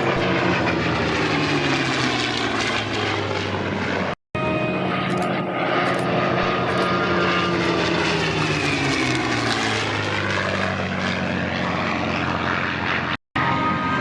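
F4U Corsair's radial piston engine and propeller running loud as the fighter flies past, its pitch sliding down as it passes, and bending again later in a second pass or turn. The sound drops out for a moment twice.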